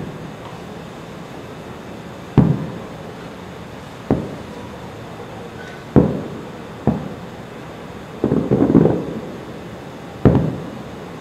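Aerial firework shells bursting: a single bang every second or two, each trailing off in an echo, with a quick rattle of several bursts about eight seconds in.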